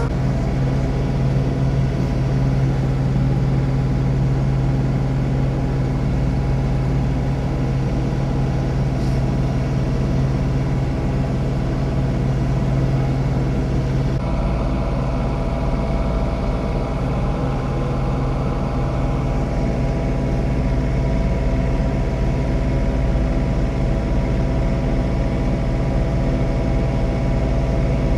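John Deere 3046R compact tractor's diesel engine running steadily while snow blowing. About halfway through the low hum fades and a set of higher steady tones comes in, a change in the engine and machinery note.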